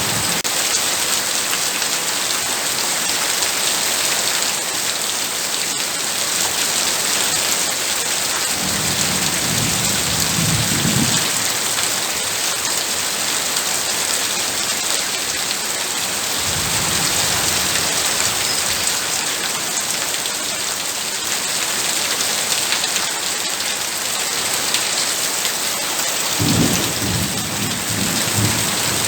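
Heavy rain falling steadily as a dense, even hiss, with low rumbles of thunder three times: about a third of the way in, around the middle, and near the end.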